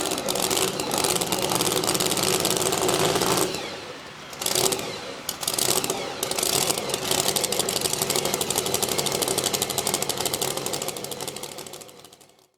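Modified two-wheel-drive pulling truck's engine running at high revs under load as it pulls the sled down the track, a rapid crackling exhaust. It dips briefly about four seconds in, picks up again, then fades out near the end.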